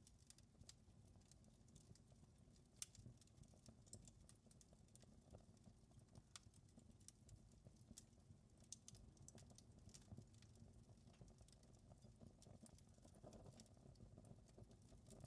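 Wood fire crackling softly: irregular sharp pops and snaps, several a second, over a low steady rumble.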